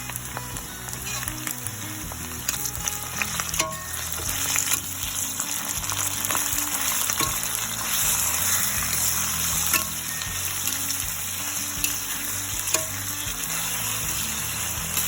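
Chopped tomato, onion and aromatics frying in hot oil in a frying pan, a steady sizzle that grows a little louder after about four seconds, with sharp clicks and scrapes of a spatula stirring against the pan.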